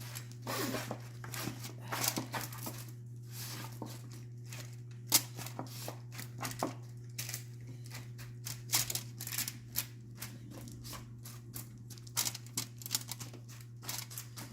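Vegetable pieces being placed by hand into an oven tray: a string of irregular light taps and clicks, over a steady low hum.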